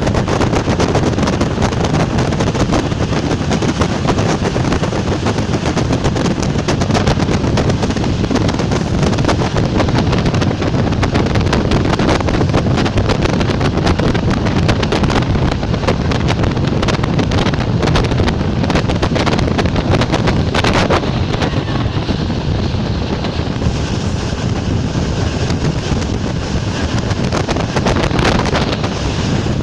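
Czech Railways class 460 electric multiple unit running at speed: a steady rumble of wheels on rail with dense, rapid clattering and wind buffeting the microphone.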